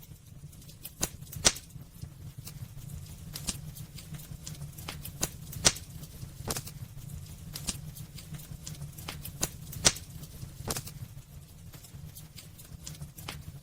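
Wood fire crackling in a fireplace: irregular sharp pops and snaps, three of them much louder, over a steady low rumble of the flames.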